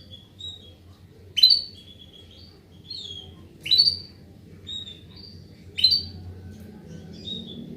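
Female domestic canary calling: three sharp, loud calls about two seconds apart, with softer short chirps between them.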